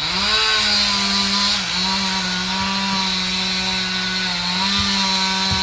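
Chainsaw engine running steadily at high revs, its note holding even and dipping slightly a couple of times as it works.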